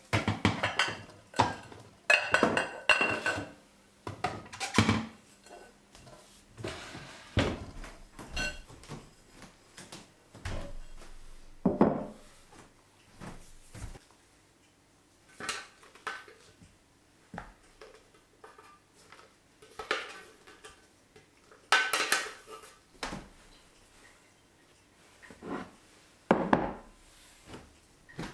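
Kitchenware being handled: scattered knocks and clatters of dishes, pots and utensils, with short quiet gaps between them.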